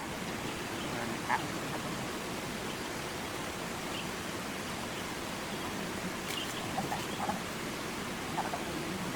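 Steady outdoor noise ambience, an even rushing hiss, with a few brief faint chirps and one sharp click about six seconds in.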